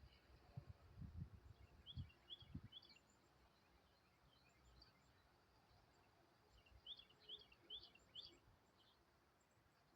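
Faint bird chirping: short high notes in quick runs of three to five, about two seconds in and again around seven seconds in, over low background noise. A few dull low thumps come in the first three seconds.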